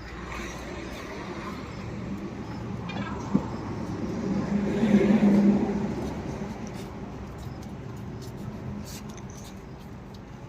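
Tata bus diesel engine running with road noise as the bus travels. The engine note swells louder about halfway through, then settles back. There is one sharp knock just after three seconds in.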